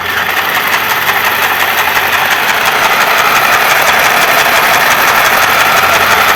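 Mini electric sewing machine running: its small motor and needle mechanism make a loud, steady, rapid clatter that starts suddenly.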